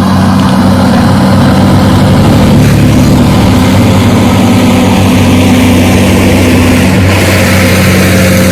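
A vehicle engine running steadily with an even, loud low hum.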